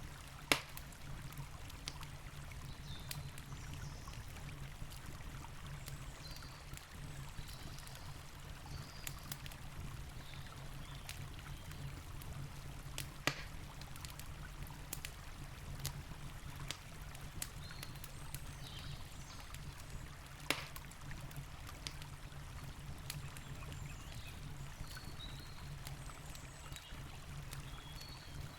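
Campfire crackling with scattered small clicks and three sharp, loud pops, about half a second, 13 seconds and 20 seconds in, over the steady rush of a flowing river.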